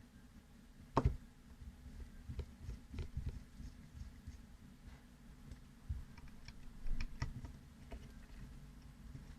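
Small metal-and-plastic clicks and taps from hands working a folding knife and small tools on a bench, with one sharp click about a second in and a few louder knocks later on.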